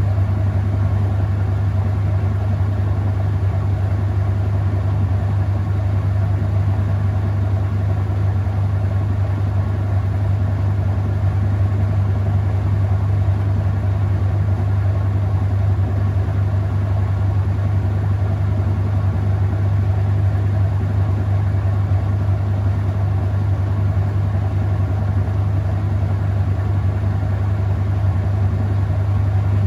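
Whirlpool top-load washing machine spinning the drum in its final spin: a steady, even hum with a low drone that does not change.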